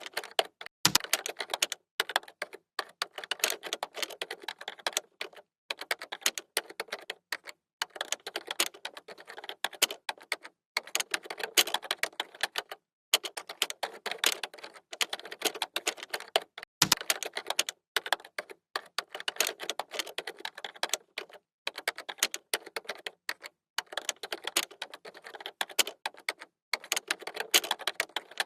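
Typing on a computer keyboard: rapid runs of clattering keystrokes lasting a few seconds each, broken by short pauses.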